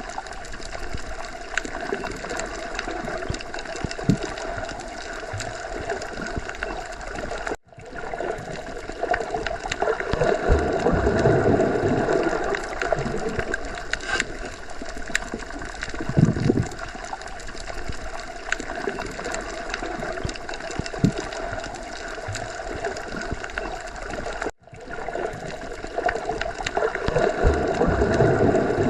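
Underwater sea ambience: a steady wash of water noise that swells louder twice and drops out for an instant twice.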